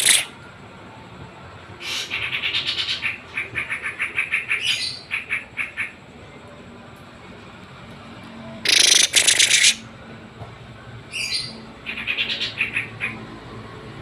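Kept pet songbirds singing in several bursts of rapid chattering trills, the loudest about nine seconds in.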